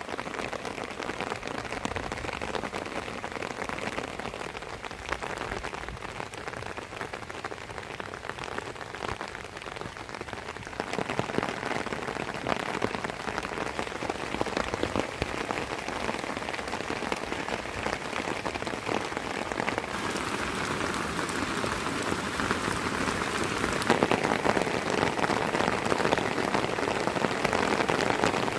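Rain falling, a dense steady patter of drops that grows heavier about a third of the way in and again near the end.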